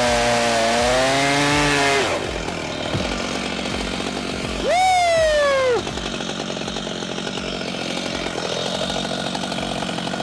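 Chainsaw cutting through wood at high revs, its pitch sagging and recovering under load for about two seconds before dropping to a lower, rougher run. About five seconds in it revs up briefly and the pitch falls away, then it runs on at a lower steady level.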